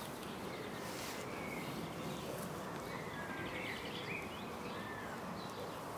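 Outdoor garden ambience: a steady soft hiss with small birds chirping on and off in the background.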